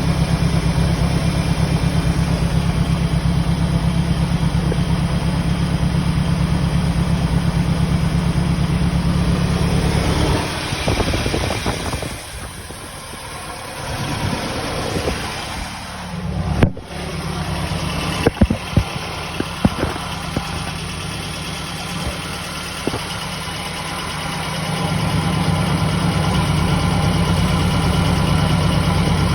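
Engine idling with a steady, pulsing low rumble, which the owner suspects is a misfire at idle. From about ten seconds in it grows quieter for a while, with a few sharp clicks or knocks, then the steady idle returns near the end.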